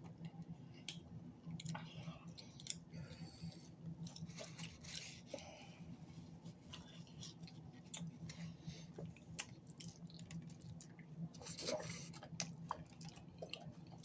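Faint chewing of cheesy flatbread pizza: small mouth clicks and smacks at an irregular pace.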